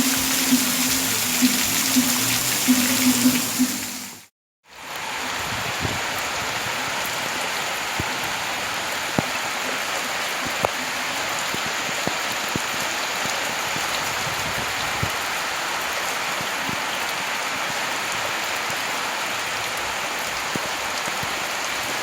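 Heavy rain falling steadily, an even hiss with scattered sharper drops. For the first four seconds it sits under music with a steady beat, which cuts off with a brief silent gap.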